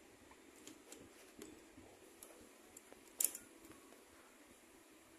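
Faint scattered clicks and light scrapes of small plastic and metal parts being handled and fitted in a PlayStation 2 disc drive's laser sled mechanism, with one sharper click a little past three seconds in.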